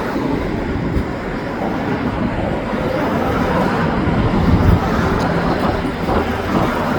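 Slow CN freight train of autorack cars rolling past: a steady rumble and rattle of wheels and cars, with a heavier low knock a little past halfway.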